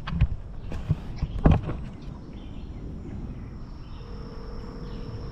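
A phone's ringback tone while a call connects: one steady tone about two seconds long, starting near the end, over a steady high insect drone. A few handling clicks and knocks come in the first second and a half.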